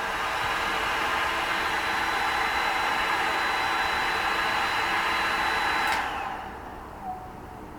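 An electric motor tool running steadily with a hiss and a thin high whine, switched off about six seconds in and winding down.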